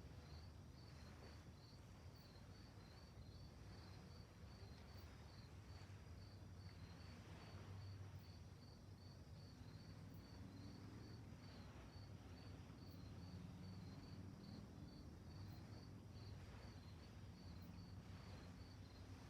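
Crickets chirping faintly in a steady, evenly spaced rhythm, over a soft low rumble.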